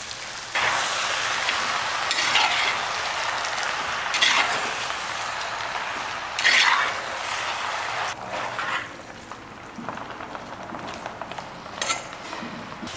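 Chopped country chicken sizzling in hot oil with dried red chillies and shallots in a clay pot, stirred with a steel ladle that scrapes through it every couple of seconds. The sizzle starts about half a second in and settles quieter over the last few seconds.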